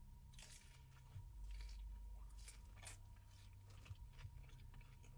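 Faint close-miked eating: chewing with a few short, crisp crunches of food.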